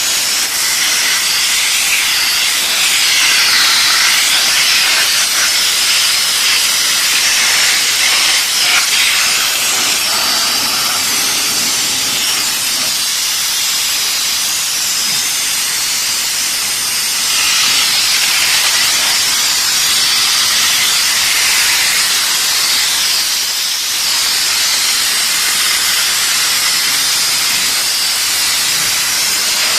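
Steam jetting with a steady loud hiss from an LPG-fired steam car washing machine, swelling and easing slightly now and then.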